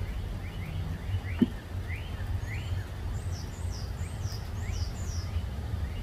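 Small birds chirping: a string of short rising chirps, then a run of five quick, high, falling notes about three seconds in, over a steady low rumble. A single sharp knock comes about a second and a half in.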